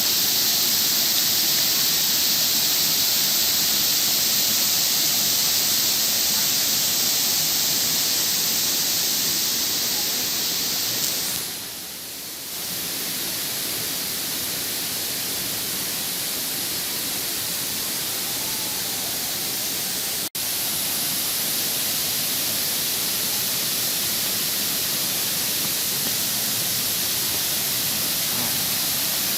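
Steady rushing hiss of a waterfall's falling water. It dips briefly about twelve seconds in and cuts out for an instant around twenty seconds.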